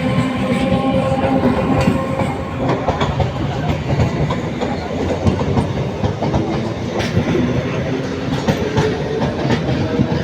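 Train running along the track: a steady, loud rumble with the clickety-clack of wheels over rail joints.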